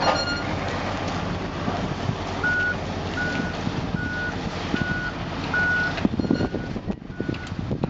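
Heavy vehicle's engine running steadily, with a reversing alarm starting about two and a half seconds in and beeping at an even pace, a little over one beep a second, the beeps growing fainter near the end.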